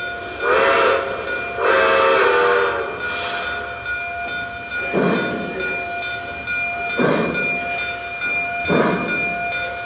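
Model steam locomotive's sound system giving two steam whistle blasts, a short one and then a longer one, followed by slow steam chuffs about every two seconds as the train starts moving away.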